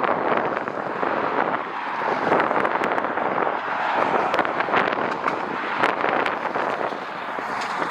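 Jet airliner engine noise: a steady roar with a crackling texture, with wind on the microphone.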